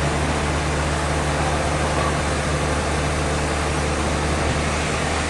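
Sawmill machinery running steadily: a constant low engine-like hum under an even hiss, with no change in load.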